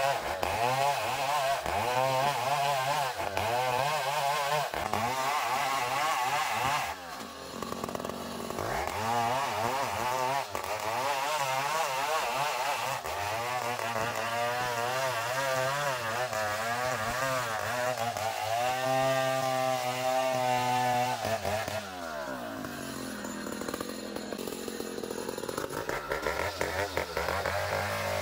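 Engine-driven sawmill saw cutting through a long ulin ironwood log. The engine's pitch wavers as the cut loads and unloads it, with brief lulls about seven and twenty-two seconds in.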